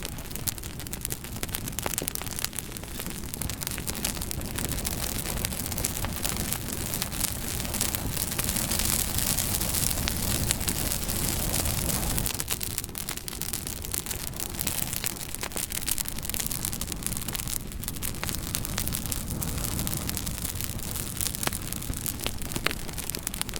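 Wood fire crackling: a steady hiss dotted with many sharp pops and snaps, swelling a little in the middle.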